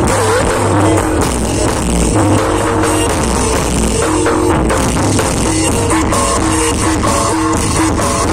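Loud live music from a reog troupe: a steady drum beat under held melody notes that change every second or so.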